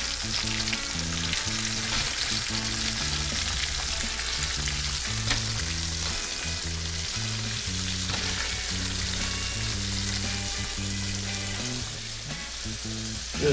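Oil sizzling steadily in a cast-iron skillet as House-Autry-breaded pieces of spotted sea trout deep-fry. A low bass line of background music steps from note to note underneath.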